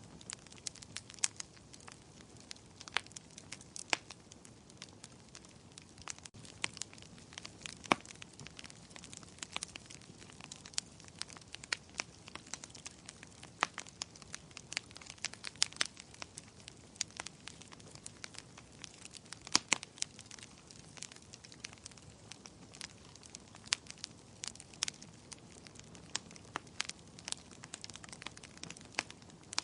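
Wood fire burning in a fireplace, crackling steadily with irregular sharp pops of varying loudness over a soft low rumble. The loudest pops come about 8 and 20 seconds in.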